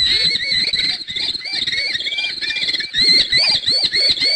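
Falcon calling: a rapid run of repeated shrill notes that rise and fall in pitch.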